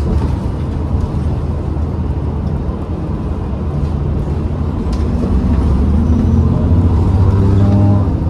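A New Flyer XDE40 diesel-electric hybrid bus runs with a steady low rumble and a faint, steady high whine. From about five seconds in, its drive note rises in pitch and grows louder as the bus picks up speed.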